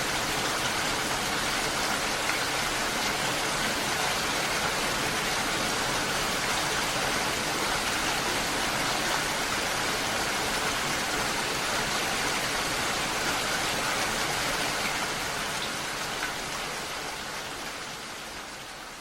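Steady rain, an even hiss of falling water, fading out over the last few seconds.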